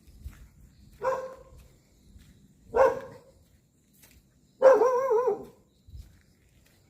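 A dog barking: two short barks, then a longer, wavering bark about five seconds in whose pitch rises and falls several times.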